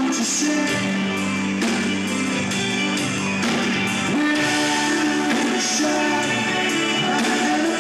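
Live rock band playing, guitar to the fore, with sustained chords that change a couple of times.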